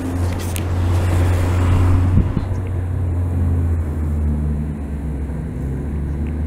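A large engine running steadily with a low drone, with a single sharp knock about two seconds in.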